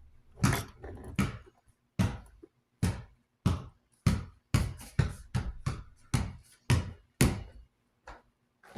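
A series of about a dozen sharp knocks of hard objects striking each other, unevenly spaced, roughly one or two a second.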